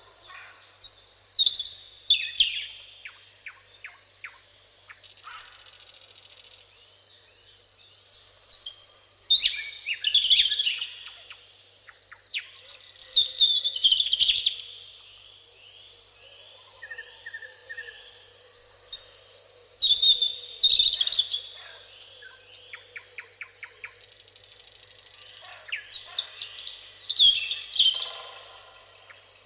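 Wild songbirds singing: loud warbled song phrases come in five bursts several seconds apart, with softer repeated chirps between them, over a steady high-pitched insect-like whine.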